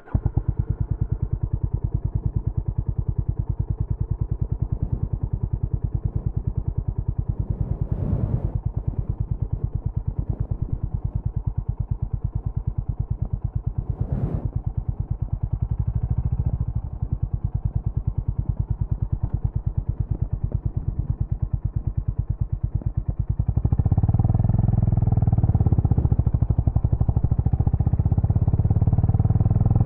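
Honda GB350's air-cooled single-cylinder engine running, its exhaust beating in a steady, even pulse. Two brief sharper sounds come a third and a half of the way through. It grows louder and heavier about 24 seconds in.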